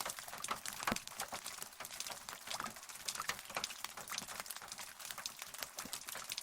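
Rain falling, many individual raindrops pattering and tapping irregularly at close range, with no thunder.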